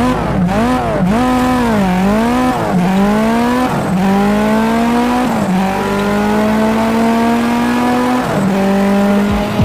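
A racing car engine revving in quick blips, then accelerating up through the gears. Its pitch climbs slowly and drops back at each upshift, about three, four, five and eight seconds in.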